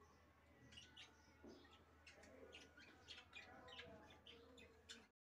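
Faint chirping of small birds, many short chirps over a low steady hum; the sound cuts off suddenly about five seconds in.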